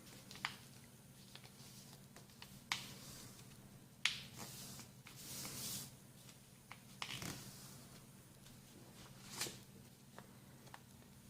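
A sheet of printer paper being folded and creased by hand: scattered sharp crackles and taps, with a longer rustle about five seconds in.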